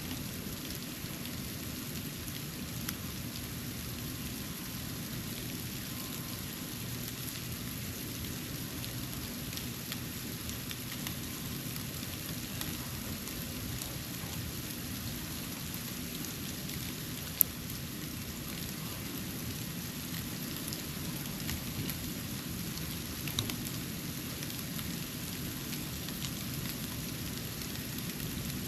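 Snow falling on a porch: a steady hiss with scattered faint ticks of flakes landing, and one sharp click about 17 seconds in.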